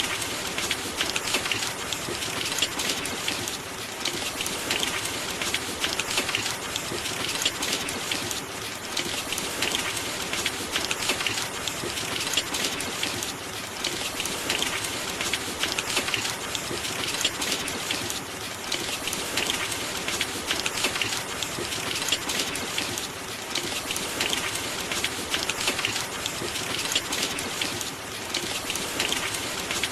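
Steady rain with a dense patter of drops, swelling and easing slightly every second or two.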